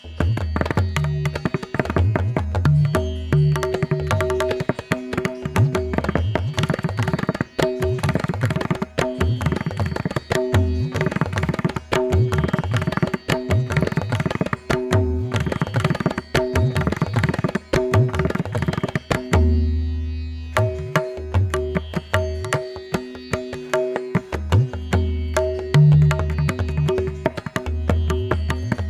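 Tabla playing a fast composition in teental, the 16-beat cycle, with dense rolls of right-hand strokes and deep, booming bass strokes from the bayan. Underneath runs a steady melodic accompaniment of held notes.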